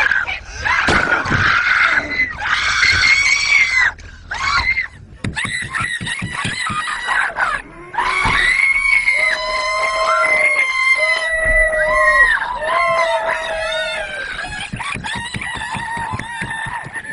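Several people screaming in terror, long high-pitched screams with more than one voice at once, broken by short pauses for breath; the longest, steadiest screams come about halfway through.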